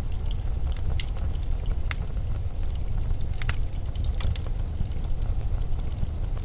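Steady low rumble of blizzard wind, with scattered sharp crackles and ticks over it at irregular moments.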